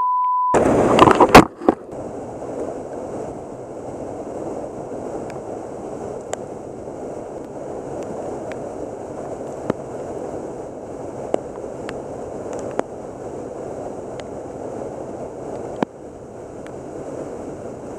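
Steady rushing of the river's flowing water, with faint scattered ticks over it. It opens with a brief steady beep and a sharp knock just over a second in.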